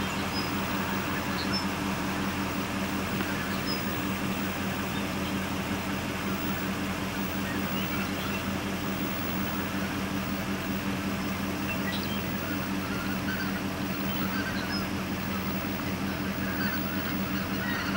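Steady low hum of an idling vehicle engine, with a few faint, short high calls from a flock of geese flying over.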